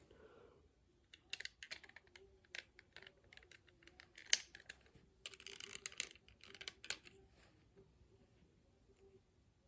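Small plastic toy parts being handled and fitted together: a run of quick, irregular clicks and rattles, with one sharper snap about four seconds in, then quieter.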